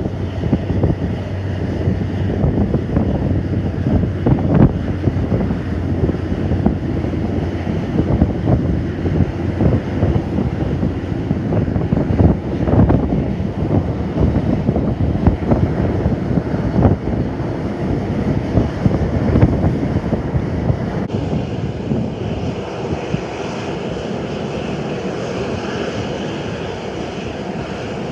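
Jet airliner engines heard through strong gusting wind buffeting the microphone. About three-quarters of the way through, the gusty buffeting gives way abruptly to a steadier engine noise.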